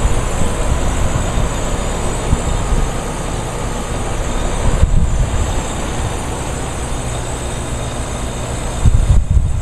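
Outdoor condenser of a new Westinghouse high-efficiency central air conditioner running steadily and quietly, a faint even whir under a steady low rumble. The rumble grows louder briefly near the end.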